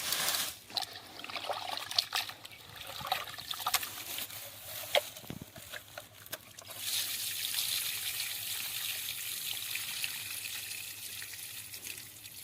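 Rice being washed in water: scattered splashes and clinks at first, then from about seven seconds in a steady stream of running water.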